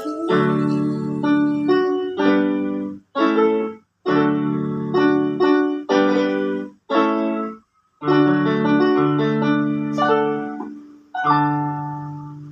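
Solo piano playing the closing chords of a slow ballad, in short phrases with brief pauses. It ends on a final chord struck near the end that rings and fades out.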